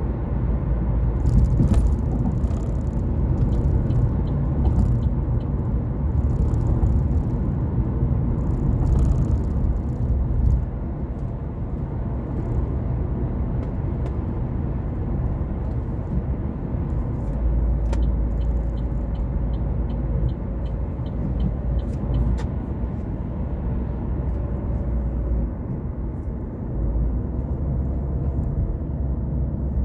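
Car driving along a road: a steady low rumble of engine and tyres. A run of light, evenly spaced ticks comes about two-thirds of the way through.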